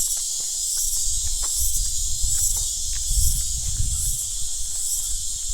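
A steady, high-pitched insect chorus with a regular pulse, about one and a half beats a second, over a low rumble.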